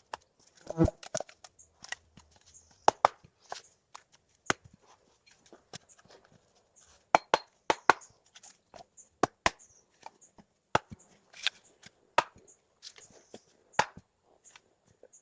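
Dry sticks snapping and crackling in irregular sharp clicks, with a heavier thump about a second in.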